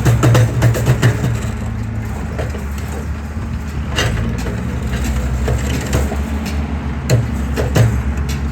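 Excavator's diesel engine running steadily under load while its bucket crushes a concrete pillar, with sharp cracks and snaps of breaking concrete: several in the first second, one about four seconds in, and two near the end.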